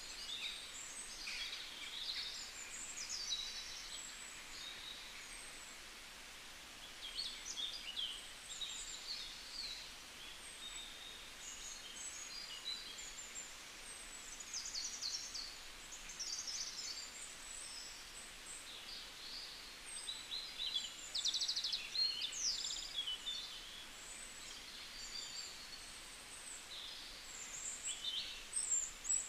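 Small birds chirping and twittering: many short, high calls overlapping throughout, with a few fast trills, over a faint steady background hiss.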